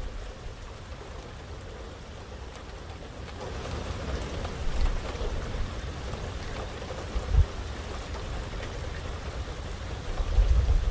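Heavy rain pattering steadily and picking up about three seconds in. There is a brief low thud partway through, and a low rumble builds near the end.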